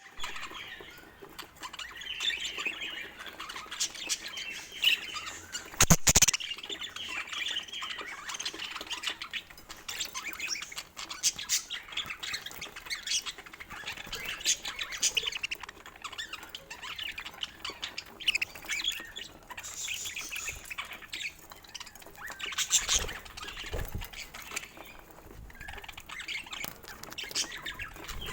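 Budgerigars chattering and squawking with quick, busy chirps throughout. Two louder sudden knocks break in, one about six seconds in and another later on.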